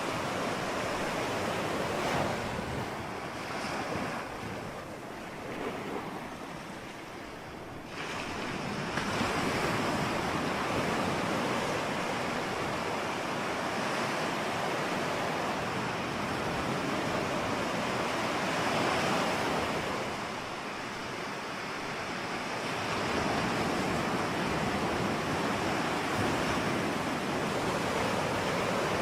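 Ocean surf: waves breaking and washing in and out in a continuous rush that rises and falls. After a lull, a wave surges in suddenly about eight seconds in, with another swell later before it eases off again.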